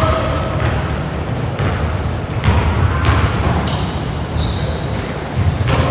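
Basketball being dribbled on a gym floor, bouncing about once a second, over the steady low rumble of a large hall.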